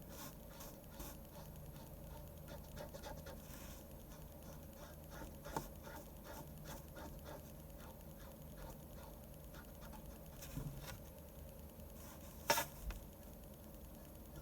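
Pen scratching on paper in quick, irregular short strokes while drawing manga, with a sharp click about twelve seconds in.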